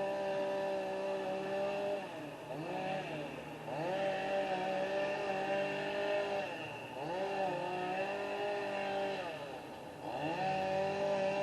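Two-stroke chainsaw running at high revs, its pitch dropping and swinging back up three times as the throttle eases off and opens again while cutting a tree.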